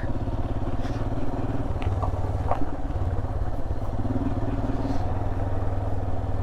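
Royal Enfield Himalayan's 411 cc single-cylinder engine running at a steady low speed, with a couple of light clicks about two seconds in.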